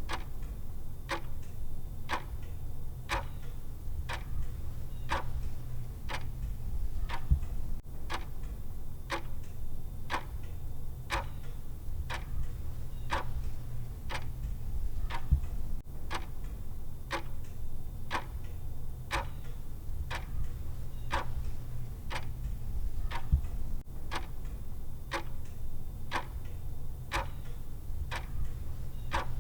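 Clock ticking sound effect of a countdown timer, an even tick-tock at about two ticks a second, over a steady low hum.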